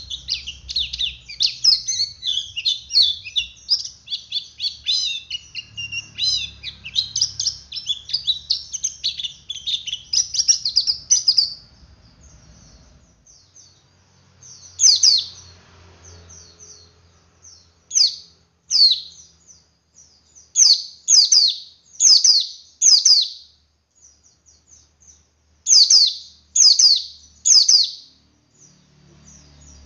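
Male white-eye (pleci) singing. A long run of rapid, continuous twittering (the ngeriwik chatter) lasts about eleven seconds. After a short pause come short, sharp, downward-sweeping calls, mostly in quick runs of two to four.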